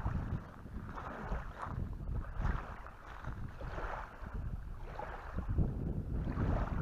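Wind buffeting the microphone in uneven gusts, a low rumble that swells and eases.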